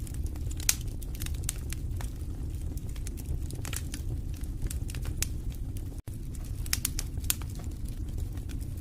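Wood fire in a fireplace crackling, with frequent sharp pops and snaps over a steady low rumble of the flames. The sound drops out for a split second about six seconds in.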